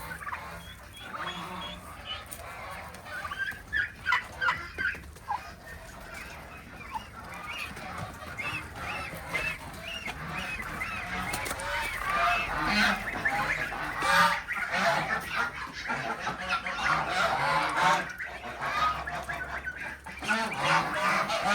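Flock of farm poultry calling, many short calls overlapping; the calling grows denser and louder about halfway through.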